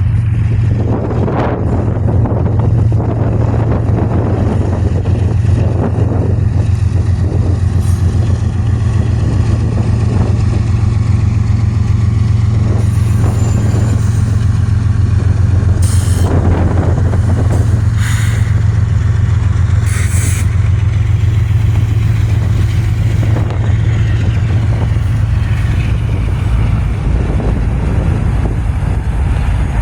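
Freight train passing close by: a steady, loud low rumble with a fast flutter, and a few short metallic clanks or squeals between about 16 and 20 seconds in.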